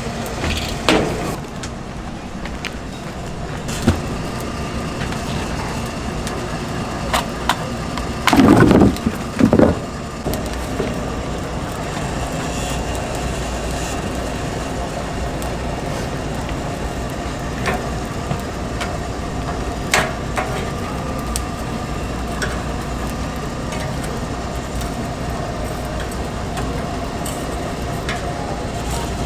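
An oak-wood-fired chicken rotisserie grill running with a steady mechanical hum and a constant tone, with scattered sharp cracks and clicks from the burning wood and the turning spits. There are two louder knocks about nine seconds in.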